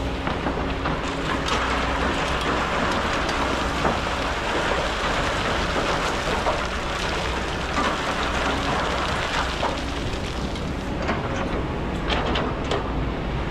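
Kobelco hydraulic excavator's diesel engine running steadily under load, under a dense hiss of sand with scattered small clicks and rattles as the bucket digs and moves it.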